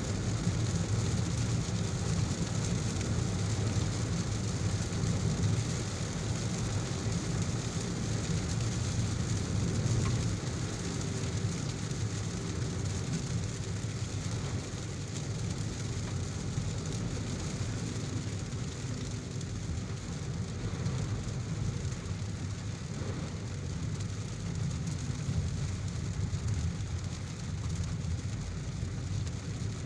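A car driving through heavy rain: a steady low road-and-engine rumble under an even hiss of rain.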